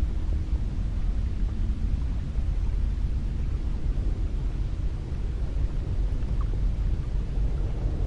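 Cold wind blowing steadily, a low rumble with little high hiss and no single gust standing out.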